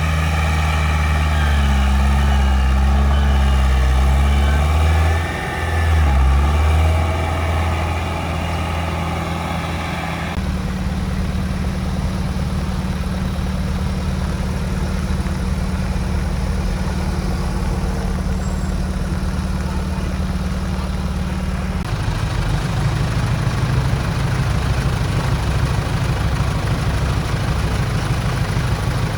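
Heavy diesel engine running, its pitch dipping and rising again a few seconds in. The sound changes abruptly about a third of the way through and again about two-thirds through, each time to another steady engine hum.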